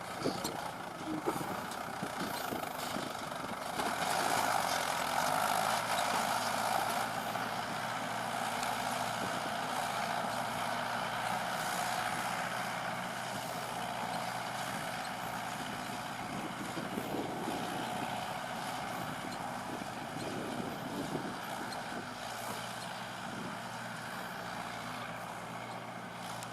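Heavy diesel engine running steadily, loudest a few seconds in and then easing a little.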